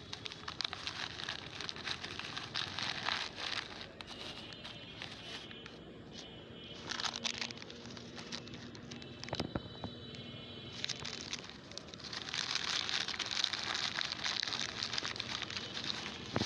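Plastic bags and wrappers crinkling and crackling as collected litter is pushed into a garbage bag, in irregular handfuls, with a sharp click about halfway through and busier crinkling in the last few seconds.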